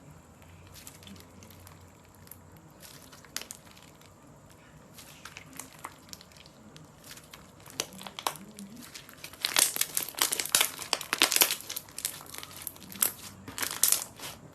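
Slime being squeezed and pressed by hand, with faint scattered crackles at first, then a dense run of louder crackling from about two-thirds of the way in.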